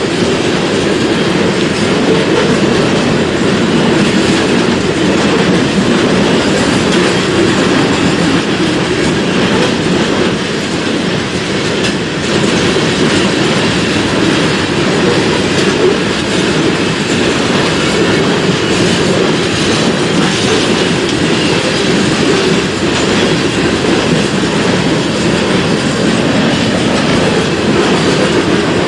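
BNSF freight train cars rolling past, a steady rumble of steel wheels on the rails with clickety-clack over the joints.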